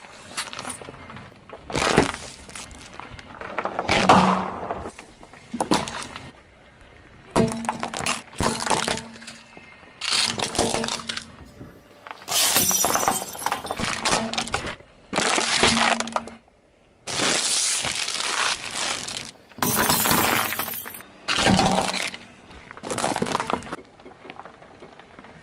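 Objects crushed under car tyres: a string of a dozen or so separate crunching, cracking and breaking bursts, some brief and some lasting a second or two, with short pauses between them.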